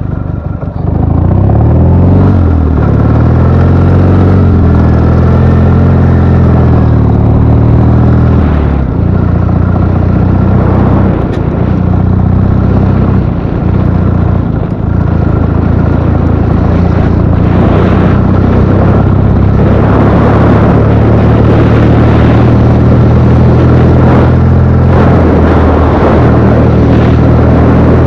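Ural motorcycle's flat-twin engine pulling away under load, its pitch rising and falling through the gears for the first nine seconds or so, then running steadily at cruising speed.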